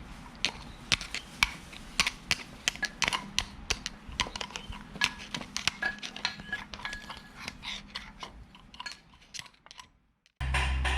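Irregular small metallic clicks and taps, as of hand tools and metal parts being handled during a propeller shaft repair. Near the end the sound drops out and a steady low hum begins abruptly.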